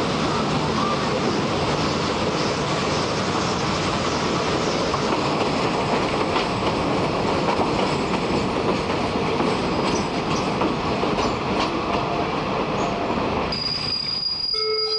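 Third-class railway carriage running on the track, heard from an open window: a steady rumble and rattle with scattered wheel clicks. The noise eases off near the end as the train slows into a station, and a high steady tone comes in just before the end.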